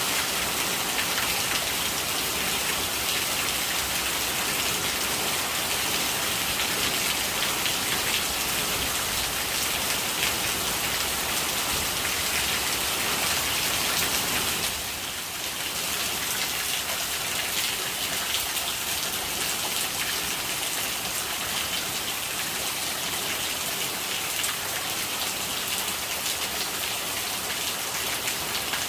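Steady rain falling, its rainwater gurgling, with a short dip in level about halfway through.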